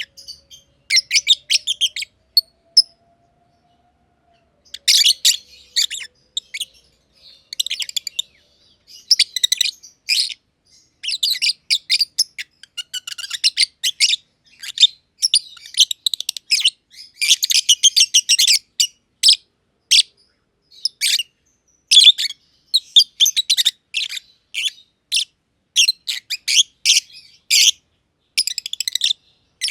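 Black-masked lovebirds chattering in rapid, shrill chirps, in quick bursts with a brief pause a few seconds in.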